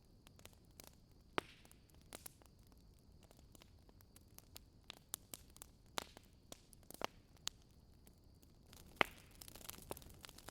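Campfire crackling: irregular sharp pops and snaps of burning wood over a faint hiss, a few louder, the crackling getting denser near the end.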